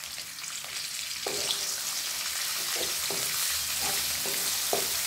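Small dried anchovies sizzling as they fry in shallow oil in a stone-coated nonstick wok. About a second in, a wooden spatula begins stirring them with repeated scrapes and knocks against the pan, and the sizzle grows louder.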